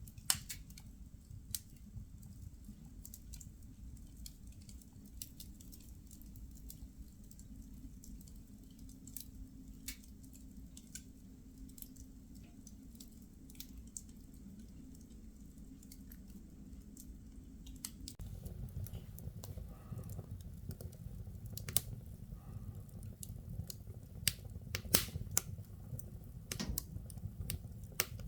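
Firewood burning in a fireplace: irregular sharp crackles and pops over a low steady rumble of the flames. About 18 seconds in, the rumble gets louder and the pops come more often.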